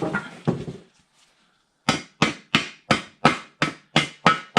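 Hammer tapping a freshly machined adapter into a bell housing: about eight sharp metallic strikes, about three a second, starting about two seconds in, after a moment of handling noise.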